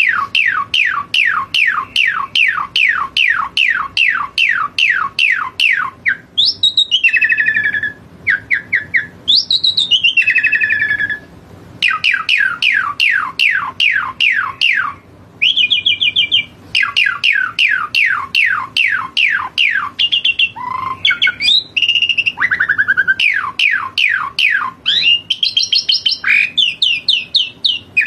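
Asian pied starling singing vigorously: long runs of rapid, repeated whistled notes, each falling in pitch, about three a second, broken up by varied gliding whistles and rougher chattering phrases.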